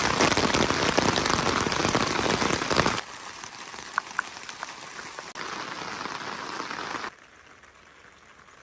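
Rain falling, loud and dense for the first three seconds, then suddenly softer, with a few sharp drops striking; it drops again to a faint hiss about seven seconds in.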